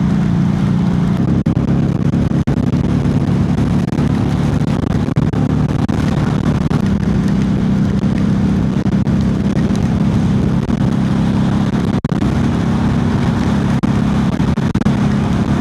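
Harley-Davidson Street 500's V-twin engine running steadily at low road speed, with wind and wet-road hiss from riding in the rain.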